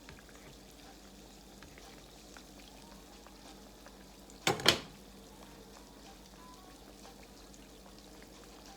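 Croquettes frying in hot grease: a steady sizzle with small scattered pops. About halfway through there is a loud, sharp double knock.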